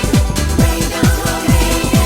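1990s Eurodance music: a four-on-the-floor kick drum at about four beats a second, with synth chords and hi-hats.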